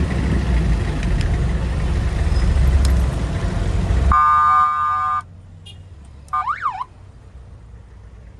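Low motorbike engine and street-traffic rumble for about four seconds, which then drops away suddenly as a vehicle horn sounds for about a second. Shortly after, a quick electronic wail sweeps up and down.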